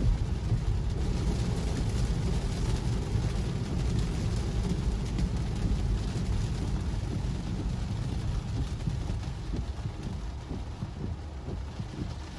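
Tyre and road noise from a Tesla electric car driving on a wet road in the rain, a steady low rumble with a light hiss above it. It gets quieter over the last few seconds as the car slows.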